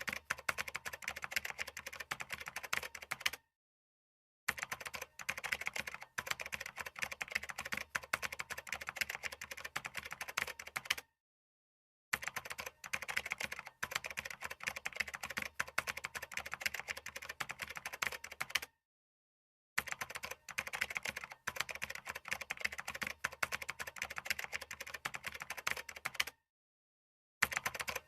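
Fast, continuous typing on a computer keyboard, dense key clicks in runs of about seven seconds, each broken off by a sudden gap of about a second of complete silence, four times.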